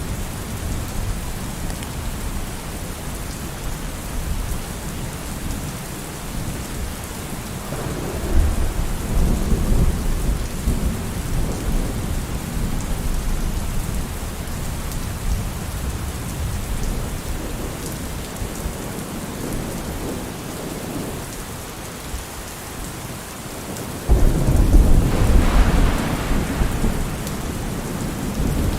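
Thunderstorm: steady rain falling, with thunder rumbling low about eight seconds in. About 24 seconds in a sudden, louder thunderclap rolls off into a rumble.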